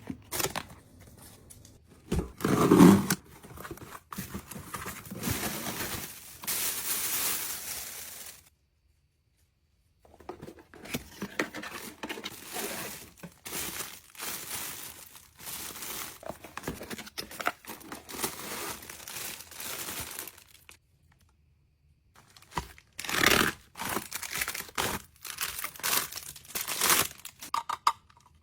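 Packaging being unwrapped: plastic and paper crinkling and tearing, with small handling knocks, in bursts that cut to silence twice.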